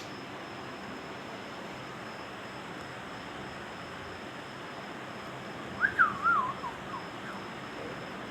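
Ringneck parrot giving one short wavering call about six seconds in, over a steady background hiss with a thin high tone.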